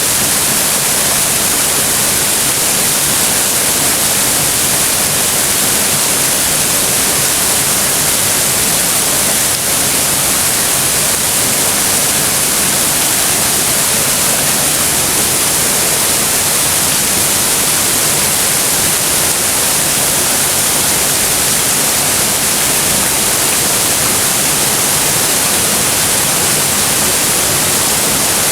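Waterfall after rain: a loud, steady rush of falling water that does not let up, with no other sound breaking through.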